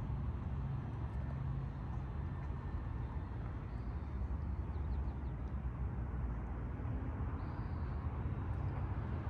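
Toyota 1KZ-TE 3.0-litre four-cylinder turbo diesel in a 1998 Hiace running, a steady low rumble.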